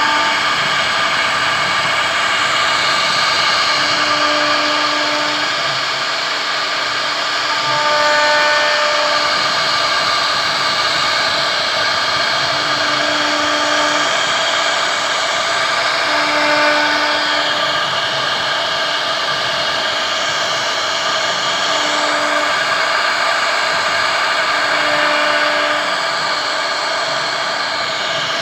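CNC router's spindle running steadily as it carves wood, a loud even whine-and-hiss, with short pitched tones of about a second coming and going every few seconds as the machine moves.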